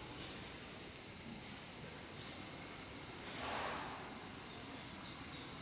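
Steady high-pitched chorus of summer insects, with one brief soft rustle about three and a half seconds in.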